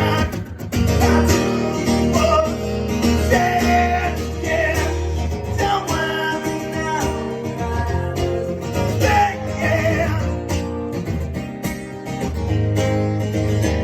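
Live music: a guitar strummed with a man singing over it, the voice dropping out near the end while the guitar carries on.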